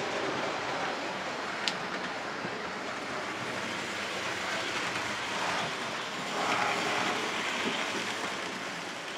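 00 gauge model train running on the layout's track, a steady rolling rattle of small wheels over rail with one sharp click about two seconds in.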